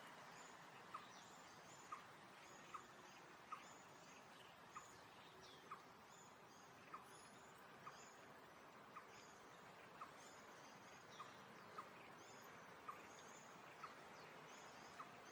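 Faint birdsong: a bird repeats a short clipped note about once a second, with thin high chirps over a soft background hiss.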